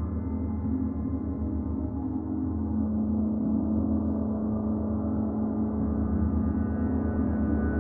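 Gong played in a sustained, shimmering wash of many overlapping tones, with a deep hum below and no separate strikes standing out; it swells slightly louder a few seconds in.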